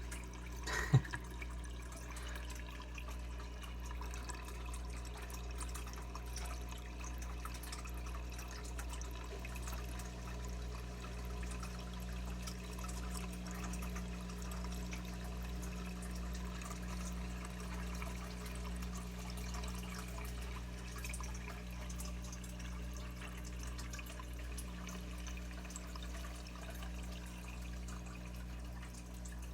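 Steady trickle of water in a shallow aquatic turtle tank, over a low, steady hum, with a single sharp click about a second in.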